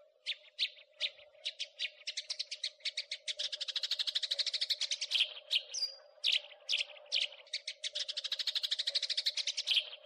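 House sparrow chirping. Separate sharp chirps give way twice to long runs of rapid chattering notes, about three seconds in and again about seven and a half seconds in.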